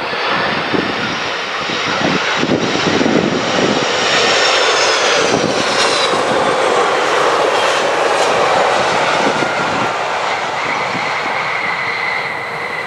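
Boeing 767-300 jet airliner passing close by with its engines running, a loud roar with high whining tones that fall in pitch as it goes past. Near the end the roar eases, leaving a steady high whine.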